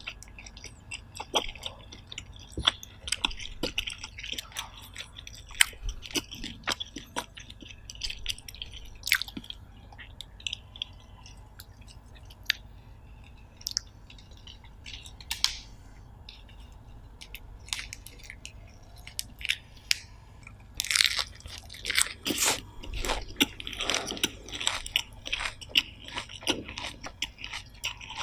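Close-miked mouth sounds of a person eating: chewing and crunching with sharp, wet clicks scattered throughout, becoming much busier and louder about two-thirds of the way through.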